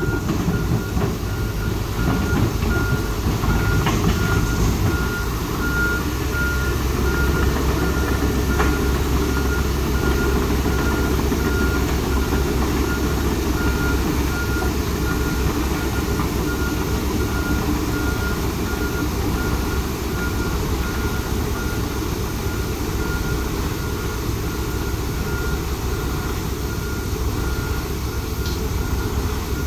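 A heavy vehicle's backup alarm beeping at a steady, even pace over a diesel engine running, the engine's low rumble growing stronger about six seconds in.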